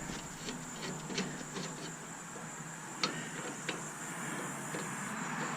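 Scattered light clicks and taps of hand tools and metal parts being handled while a stainless steel coffee maker is dismantled. A sharper click comes about three seconds in, and a steady faint high hiss runs underneath.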